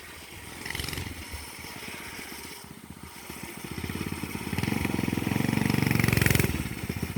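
Mini motorbike's small engine running with a fast, even firing beat. It grows louder over a few seconds as the bike comes closer, then drops back near the end.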